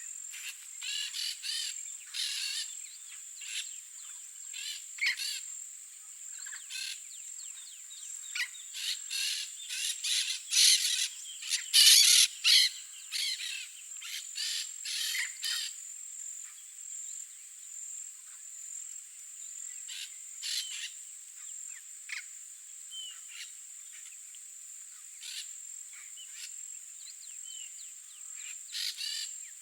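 Yellow-faced parrots calling: short, harsh squawks in irregular runs, busiest and loudest about midway, over a steady high-pitched drone.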